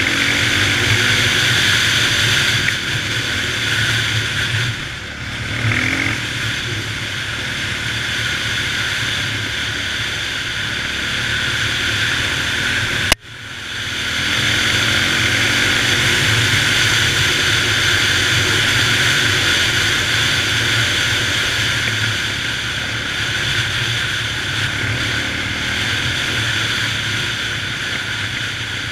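Honda XR650R dirt bike's single-cylinder four-stroke engine running steadily under way, with a constant rushing noise over it. It eases off briefly about five seconds in. A sharp click and a momentary dropout come about thirteen seconds in.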